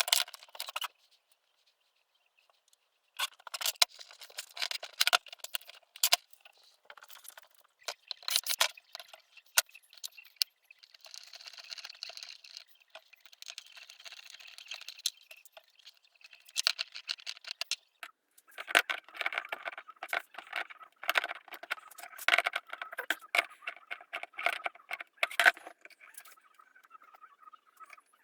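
Irregular clicks, taps and scraping of hard parts being handled and worked by hand, with a stretch of steadier scraping or rustling in the middle.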